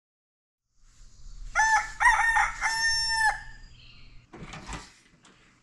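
A rooster crowing once: a full cock-a-doodle-doo of short notes ending in a longer held note. A brief noise follows a second later.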